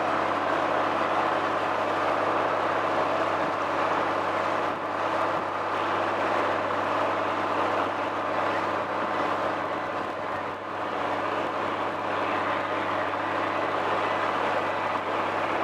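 Motor launch's engine running steadily under way, a constant low drone with dense even noise over it.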